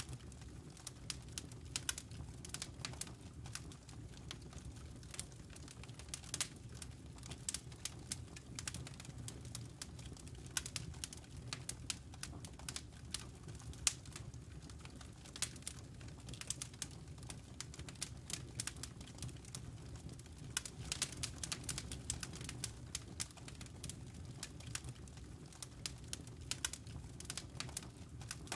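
Campfire embers and burning wood crackling: irregular sharp pops and snaps, several a second, over a steady low rumble.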